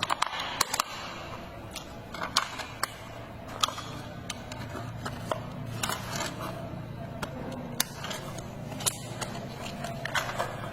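Plastic toy truck being handled: irregular clicks and taps, some close together, over a low steady hum.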